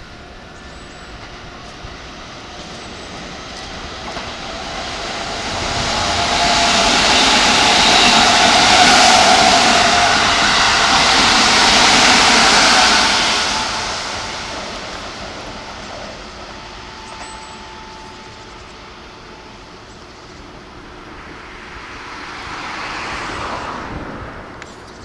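Keikyu Line electric train passing a level crossing: wheels and motors rise to a loud rush about six seconds in, hold for several seconds, then fade. A smaller swell of train noise follows near the end.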